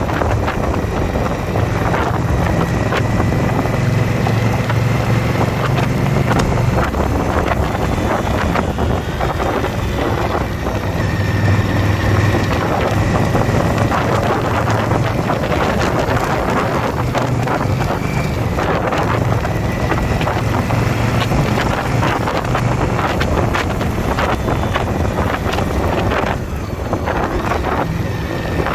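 Motorcycle engine running at road speed, its note swelling and easing every few seconds, under heavy wind noise on the microphone. The level dips briefly near the end.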